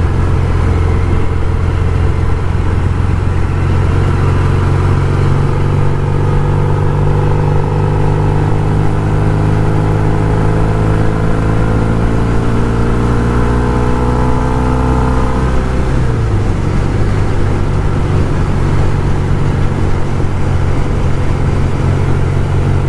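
1974 Norton Commando 850's parallel-twin engine pulling in third gear, its pitch rising slowly as it gains revs, then dropping suddenly about sixteen seconds in and running steady after.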